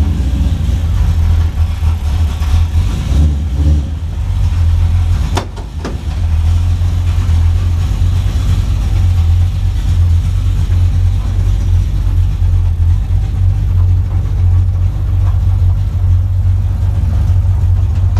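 Car engine with a rear-mounted turbocharger idling steadily from inside the cabin, warming up shortly after a cold start. A short click and a brief dip in the engine sound come about five and a half seconds in.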